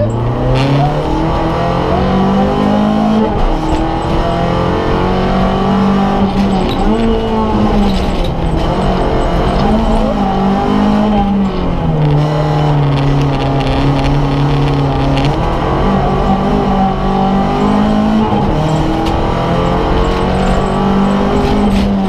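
Rally car engine heard from inside the cabin, working hard along a special stage. Its pitch repeatedly climbs under acceleration and drops back on gear changes and lifts for corners.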